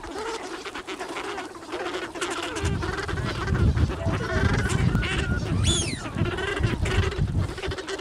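A flock of wild waterfowl calling, many honking and quacking calls overlapping, with one higher rising-and-falling call near the middle. A low rumble joins in about two and a half seconds in.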